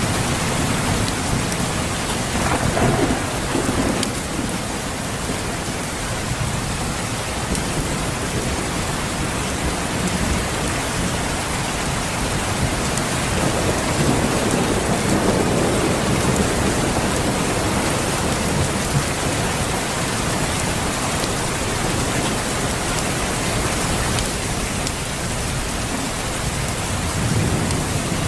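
Steady rain falling, an even hiss, with low rolls of thunder swelling about three seconds in and again around fifteen seconds.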